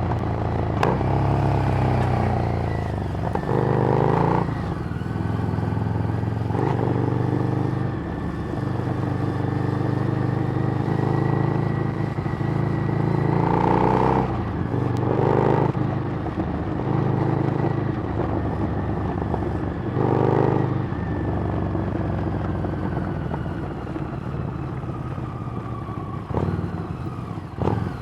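Harley-Davidson Street Rod's 750 cc V-twin running through a Screamin' Eagle exhaust while riding. The engine note steps up and down, with several louder swells of throttle.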